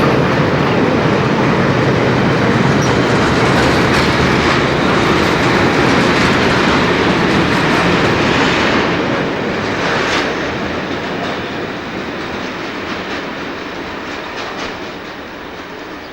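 Freight train rolling past, its wheels clattering over the rail joints, loud at first and then fading away steadily from about nine seconds in.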